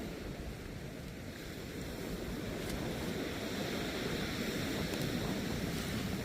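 Steady rush of river water, with wind rumbling on the microphone.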